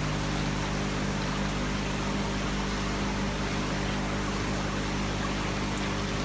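Water from a tiered indoor floor fountain trickling and splashing steadily from tier to tier into its reservoir, with a steady low hum beneath.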